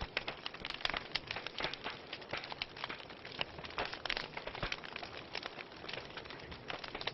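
Wood fire crackling in a fireplace: many irregular pops and snaps over a soft, steady hiss.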